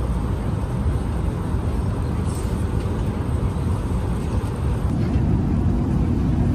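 Steady low rumble of cabin noise inside an Airbus A380 with its engines running as it taxis after landing, growing slightly louder about five seconds in.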